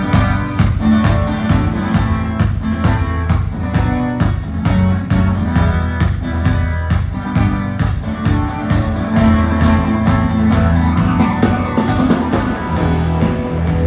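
Rock band playing an instrumental intro: guitar and bass guitar over a steady beat.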